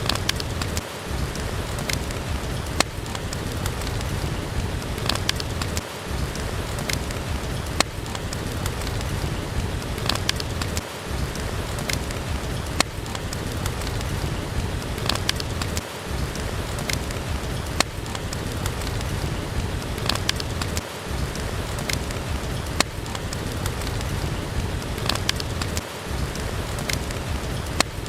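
Steady heavy rain, with many sharp clicks and pops scattered through it, and a brief dip in the low rumble about every five seconds.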